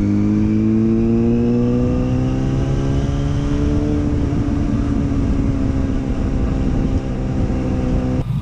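Motorcycle engine pulling hard, its pitch rising steadily for about four seconds and then holding at a high, even note. It cuts off suddenly near the end.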